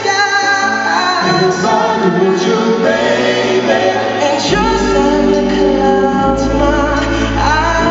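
Live band playing a slow pop ballad with singing over it; deep sustained bass notes come in about halfway through.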